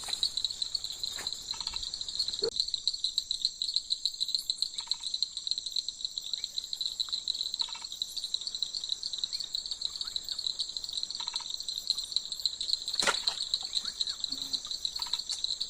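Steady high-pitched trilling chorus of insects such as crickets, with short pulsed calls every few seconds beneath it and one sharp knock about thirteen seconds in.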